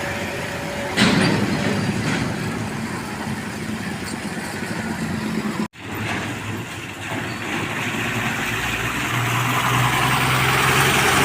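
Truck engines running on the road, with a sudden brief cut about halfway through; near the end a louder engine with a steady low hum grows louder, as if a truck draws closer.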